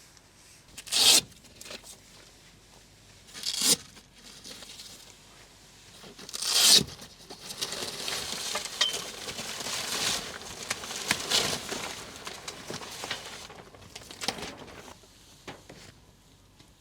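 Crinkly material being handled: three short, sharp ripping sounds about two to three seconds apart, then several seconds of continuous crinkling and rustling that dies away near the end.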